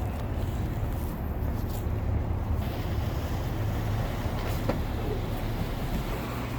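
City street traffic: a steady low rumble of vehicle engines with a general road-noise haze.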